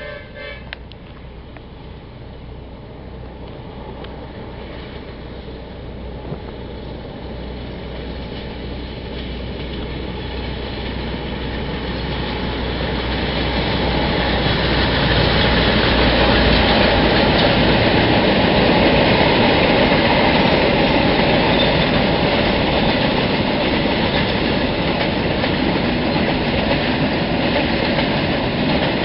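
Passenger train with two diesel locomotives passing in double traction. A horn blast cuts off just after the start. The engines' low rumble grows louder as the locomotives approach and go by. After that the long rake of twelve coaches rolls past with a steady, loud rolling noise and wheels clattering over the rail joints.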